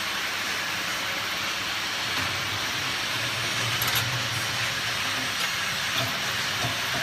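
Glass vial washing machine running with a steady hiss, a few faint clicks and a brief low hum about midway.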